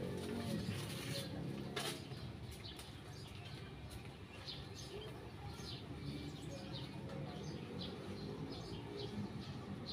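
Small birds chirping: short, high chirps repeating irregularly, over a steady low background rumble. A single sharp click comes about two seconds in.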